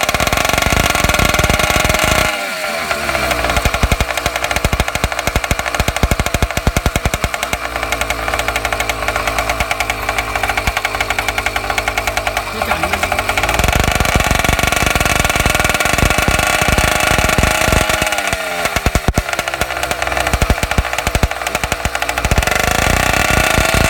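Small engine running through a CDH66 muffler, revved up and let back down: it drops from high revs to a low idle about two seconds in, climbs back up about halfway through, drops again, and revs up once more near the end.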